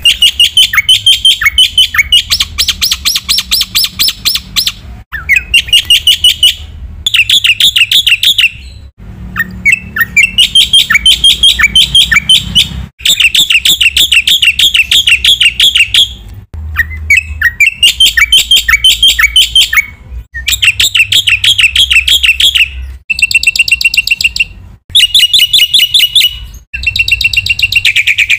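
Black-winged myna (jalak putih) singing loudly in long phrases of fast, repeated notes. Brief pauses and abrupt cuts separate the phrases.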